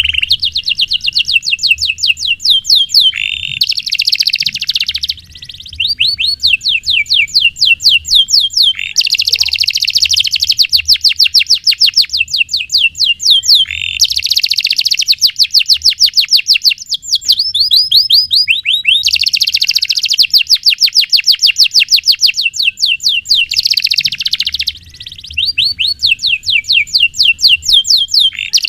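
Domestic canary singing a long, loud song of fast trills: strings of rapid repeated high notes rolling one into the next, with two short breaks about five and twenty-five seconds in.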